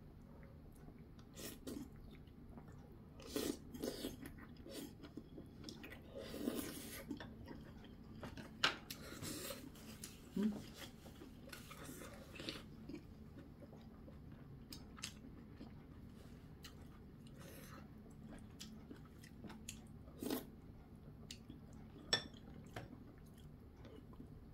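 Chewing a big mouthful of kimchi from a kimchi stew, with wet mouth sounds in short bursts and a few sharp clicks of chopsticks against the dishes.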